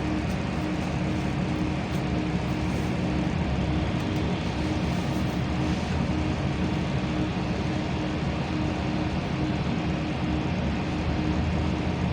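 Steady interior noise of a LiAZ-5292 low-floor city bus under way: engine and road noise with a constant low hum.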